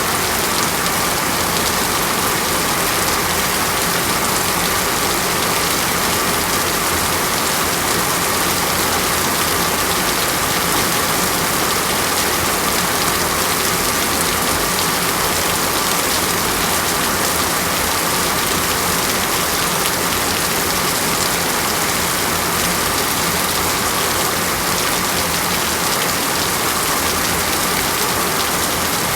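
Steady rain, an even unbroken hiss that neither builds nor fades.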